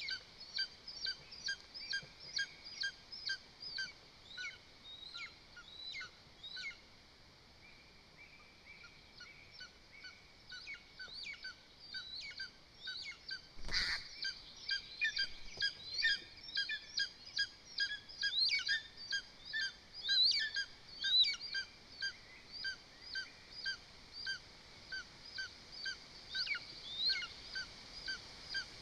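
A bird calling in a long run of short, high notes, about two to three a second, some of them sliding down in pitch. A single sharp click about 14 seconds in.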